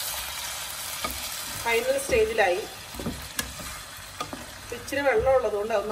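Grilled pork pieces in masala sizzling in a pot as they are stirred with a spatula, with the spatula clicking and scraping against the pan. A voice is briefly heard twice, about two and five seconds in.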